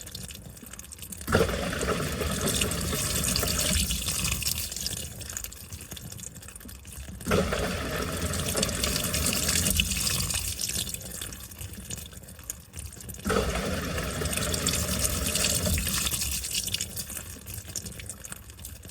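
Washing machine in its wash cycle: water and laundry sloshing as the wash action turns. The sloshing starts with a sudden surge about every six seconds, three times, with a short quieter lull before each.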